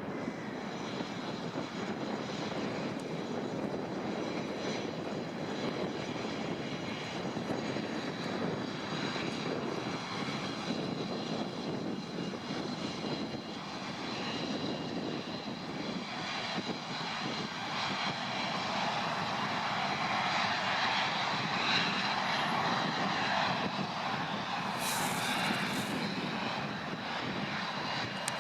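Airliner engines running: a steady rushing noise with a thin, steady high whine. It grows louder and brighter from about halfway through.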